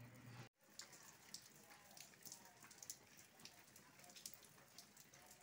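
Steady rain falling, a soft hiss dotted with many sharp ticks of close drops hitting surfaces. It starts after a brief dropout about half a second in.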